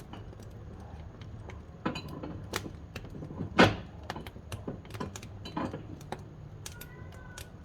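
Firewood burning in a wood-fired kitchen stove, crackling with irregular sharp pops, the loudest about three and a half seconds in, over a low steady background.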